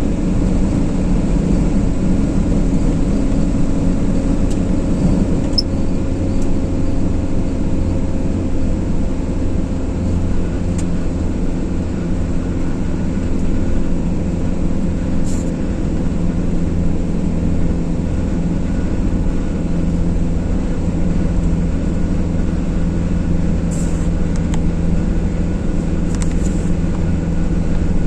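A car driving at a steady pace: continuous engine hum with road and tyre rumble, the engine note drifting only slightly.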